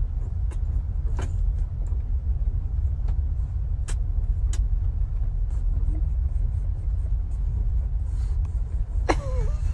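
Steady low rumble, like road noise in a moving car, with a few faint clicks. Near the end a dog breaks in with a whining yelp that slides in pitch.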